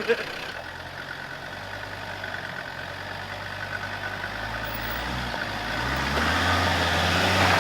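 Off-road four-wheel-drive's engine running low and steady, then getting louder and revving up in rising sweeps over the last few seconds as it is driven onto slippery mud rock.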